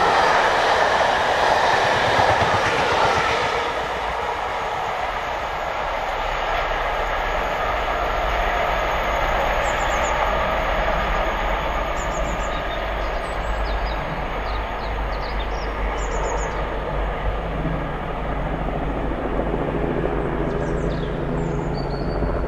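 Passenger coaches of a steam-hauled train rushing past at speed on the main line. The noise drops off about three and a half seconds in as the train goes away, leaving a steadier, quieter rumble as it recedes.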